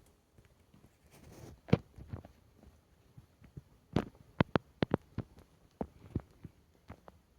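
Fire in a fireplace burning vinyl shorts, crackling with scattered, irregular sharp pops and snaps, several in quick succession about four to five seconds in.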